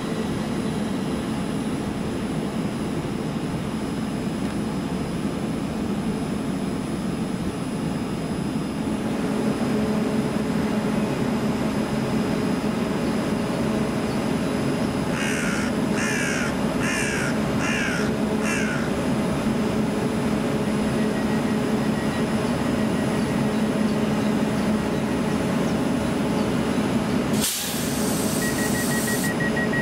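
Northern class 331 electric multiple unit approaching and slowing into the platform, its traction equipment humming steadily and growing louder about a third of the way in. A crow caws five times midway. Near the end there is a short, sharp hiss of air, then a rapid beeping.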